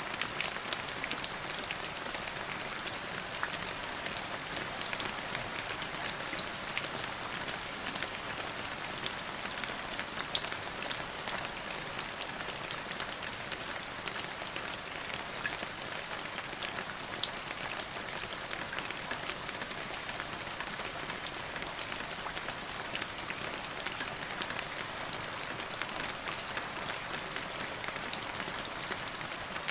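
Steady rain falling: an even hiss of rain with many sharp ticks of single drops striking close by, one louder tick about halfway through.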